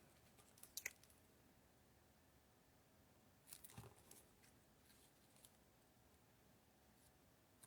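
Near silence with faint handling of cardstock pieces: a few light clicks just under a second in and a short soft rustle about three and a half seconds in.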